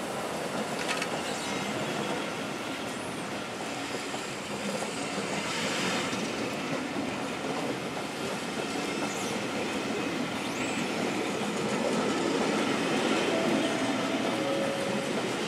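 Rake of maroon charter passenger coaches rolling past close by: a steady rumble of steel wheels on the rails.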